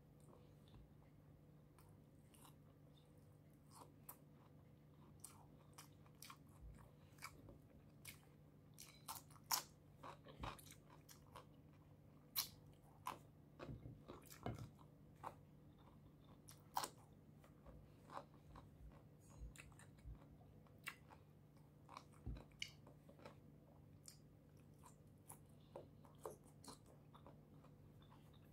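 Mukbang eating sounds: a person biting and chewing food close to the microphone, with many short crunches and mouth clicks, thickest in the middle, faint over a steady low hum.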